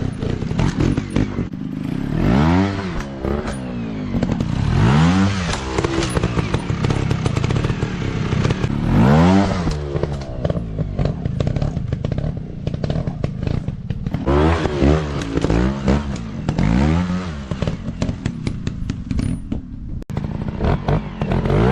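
Off-road motocross bike engines revving up and dropping back again and again, a burst of throttle every few seconds over a steady engine drone, with many small knocks and clicks throughout.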